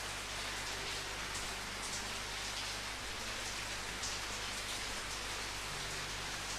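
Steady rain falling and pattering on a surface, with scattered individual drops ticking through the hiss.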